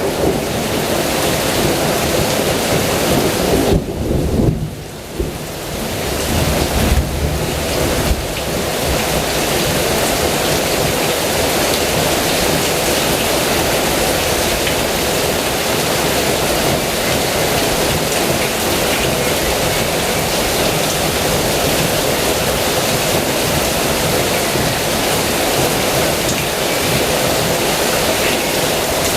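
Heavy rain pouring steadily, with a low roll of thunder in the first several seconds.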